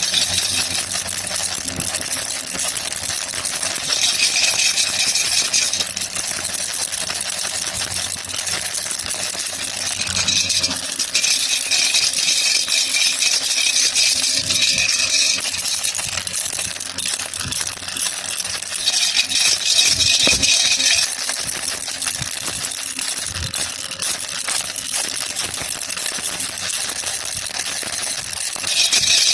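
Baby rattle (jhunjhuna) shaken without a break, a dense run of small clicks, getting louder and brighter for a couple of seconds about four seconds in, for several seconds from about ten seconds, again around nineteen to twenty-one seconds, and at the very end.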